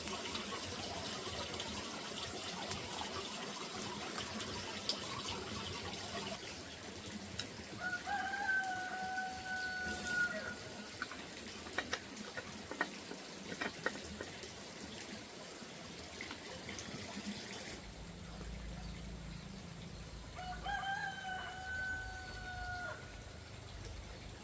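A rooster crowing twice, each a long drawn-out crow holding a fairly level pitch, about thirteen seconds apart, with a few scattered clicks in between.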